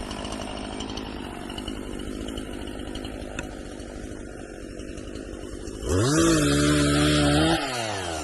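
Chainsaw idling, then throttled up about six seconds in to a loud high-rev run held for a second and a half, then let back down toward idle near the end.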